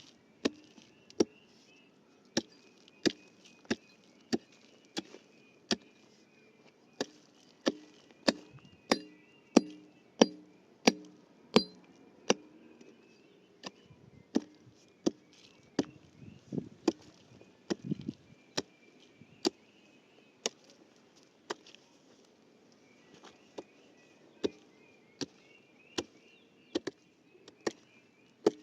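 Steady series of chopping blows from a hand tool, roughly one or two strikes a second, with a couple of short pauses.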